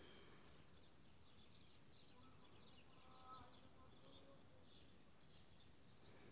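Near silence, with faint bird chirping in the background over low room noise.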